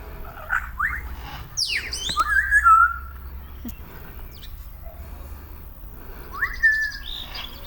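Birds calling: a series of rising, whistled calls, the loudest and longest about two to three seconds in and another about a second before the end.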